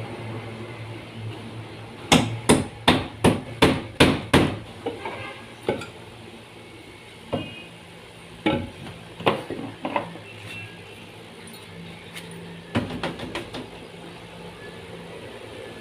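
Hammering: a quick run of about six blows a couple of seconds in, then scattered single blows and a short burst of several blows near the end.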